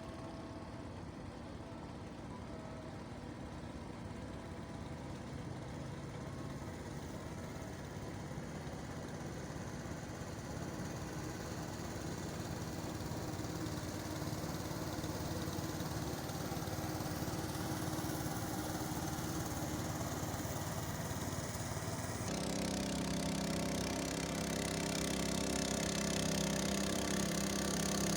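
An engine running and growing steadily louder as it draws closer. From about 22 seconds in, a stronger, steady low drone takes over.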